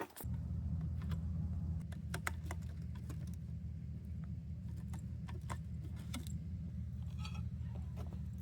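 A vehicle engine running steadily with a low hum, with scattered light clicks and jingles like keys over it.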